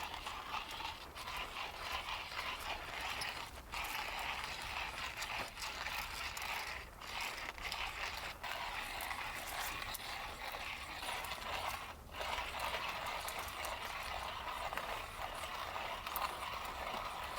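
Heavy rain falling, a dense steady crackle of drops striking a hard surface, dipping briefly a few times.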